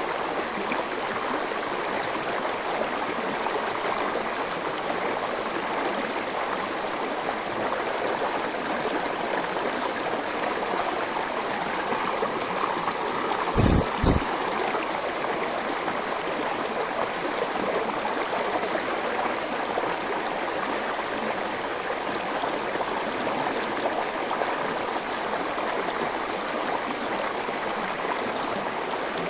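A gentle forest stream flowing steadily. About fourteen seconds in there are two brief low thumps in quick succession.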